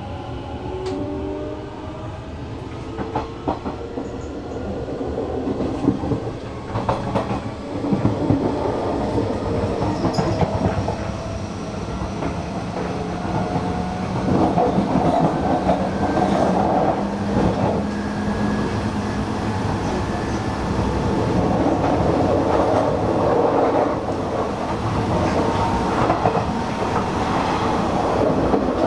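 Electric commuter train running along a station platform, with irregular wheel clicks over the rails and a steady motor tone. It grows louder several seconds in.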